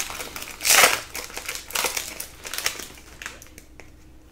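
Trading cards being handled and flipped through, with crinkling rustles: a loud burst about a second in, then several lighter scuffs.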